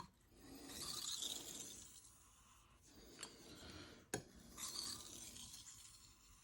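A knife edge drawn across a Shapton Rockstar 1000 whetstone in two slow, faint strokes, each a gritty hiss, with a light click of the blade against the stone just before the second.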